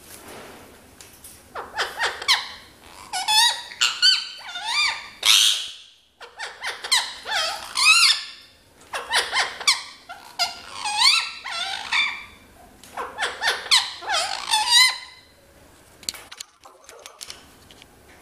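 Ringneck parrot making shrill, squeaky calls: rapid rising-and-falling chirps in four bursts of a few seconds each, with short pauses between.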